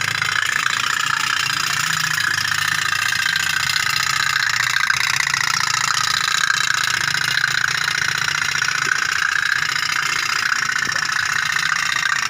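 Toy otok-otok (pop-pop) boat's candle-heated tin steam engine running steadily, a rapid, even putt-putt ticking.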